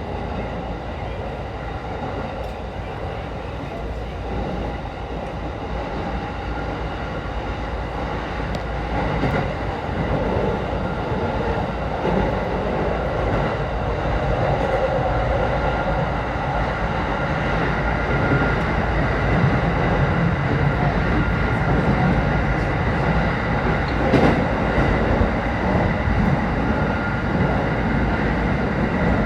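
Saikyo Line E233-series electric commuter train running, heard from inside the carriage: a continuous rumble of wheels on track with a faint steady whine, growing gradually louder.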